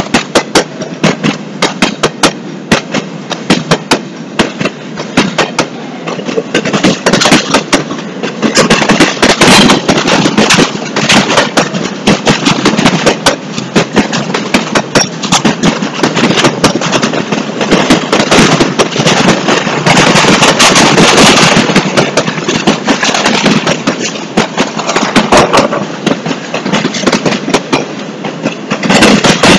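Empty double-stack intermodal well cars of a passing freight train clattering loudly along the track, a dense, irregular run of sharp clanks and bangs.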